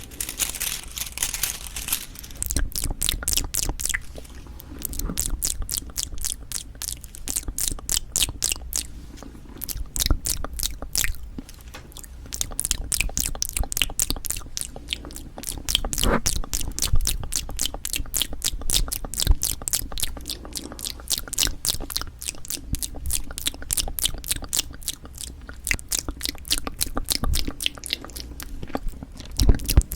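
Close-miked ASMR eating of cheonhyehyang citrus cup jelly: a quick, steady run of small chewing clicks.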